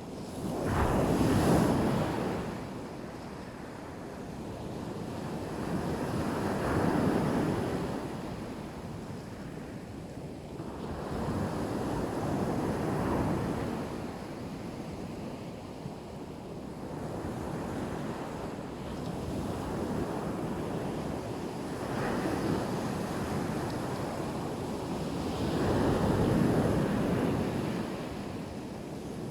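Black Sea surf: waves breaking and washing up on the shore, swelling and ebbing about every five to six seconds, with the loudest breakers near the start and near the end.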